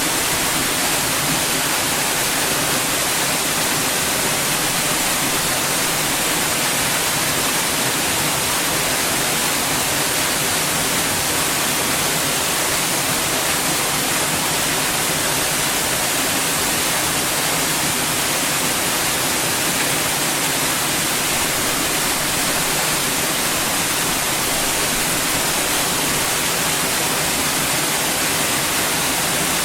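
Steady, unchanging white noise: an even hiss, brightest in the high treble.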